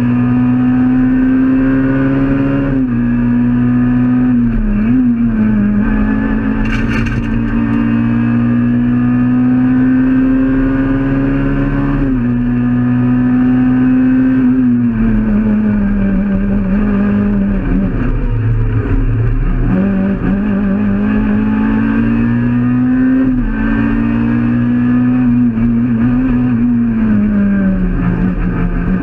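Peugeot 106 rally car's engine heard from inside the cabin, driven hard on a stage. Its note climbs slowly through long pulls, drops at gear changes and dips lower where the car slows for corners.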